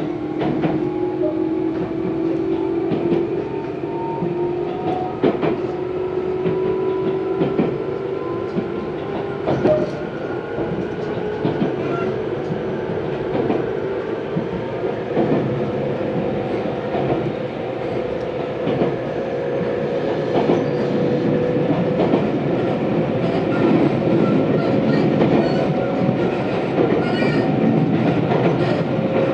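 Tobu 634-type train heard from inside the car while running: a motor and gear whine rises steadily in pitch as the train gathers speed, over wheel rumble and the clicks of the wheels passing rail joints.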